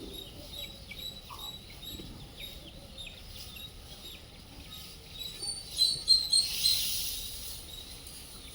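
Small birds chirping repeatedly in short, high, falling notes, with a louder burst of rapid twittering about six seconds in. A faint, steady, high-pitched whine runs underneath.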